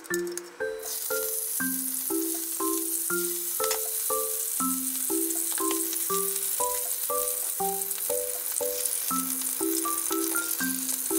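Pieces of white fish sizzling in a hot frying pan, a steady hiss that starts abruptly about a second in and holds, with a few light clicks. A plucked background-music melody with a steady beat runs throughout.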